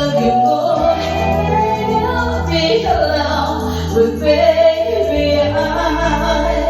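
A voice singing a pop song over backing music, with a low bass line coming in about a second in.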